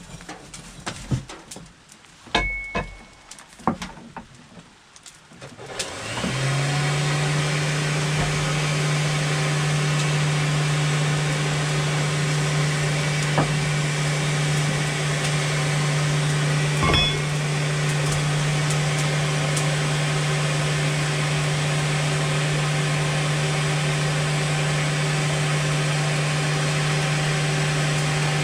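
A few handling knocks and clicks, then about six seconds in a motor starts and runs steadily at one pitch, with a hiss over it.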